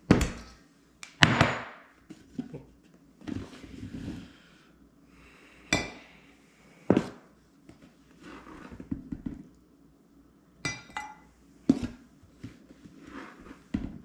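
Kitchen clatter: dishes, pans and utensils knocked and set down in an irregular series of sharp clanks, several with a short metallic or glassy ring, with some rustling between them.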